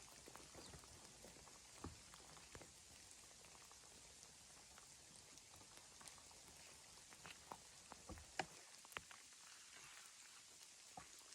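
Near silence with faint, irregular light ticks and taps, a few louder ones a little past the middle.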